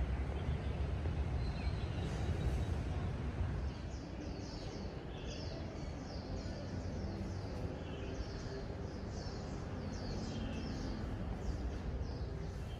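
Small birds chirping, a string of short high chirps repeated about twice a second from a few seconds in, over a steady low outdoor rumble.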